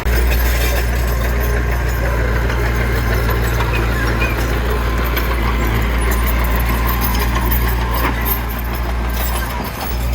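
A heavy diesel engine running steadily: a deep, even hum that holds one pitch without revving.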